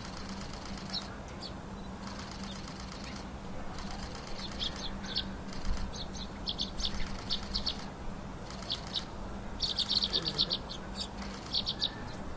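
Small wild songbirds at a winter water spot: wings fluttering, with a scatter of short high chirps that bunch into a quick series a little after the middle. A faint steady low hum sits underneath.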